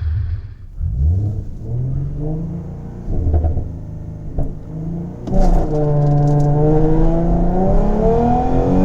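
2011 Ford Mustang's 3.7-litre V6 engine, revved briefly a few times, then at about five seconds going to full-throttle acceleration, its note climbing steadily as the car launches on a timed run.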